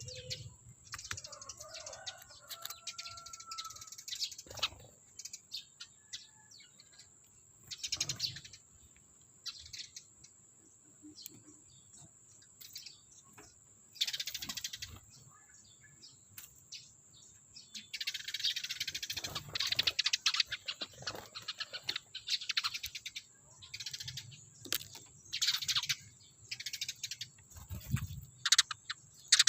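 Sparrows, Eurasian tree sparrows, giving repeated short chirps. A few scattered knocks and rustles come between the calls.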